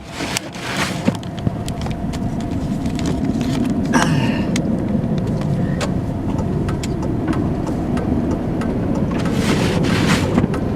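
Road noise inside a pickup truck's cab, driving slowly on a snow-covered road: a steady low engine and tyre rumble with scattered sharp clicks and a couple of brief hissing swells.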